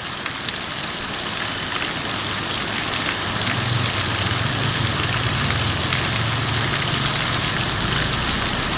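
Heavy rain pouring down in a steady hiss, with a vehicle engine running low underneath it and growing louder from about three seconds in.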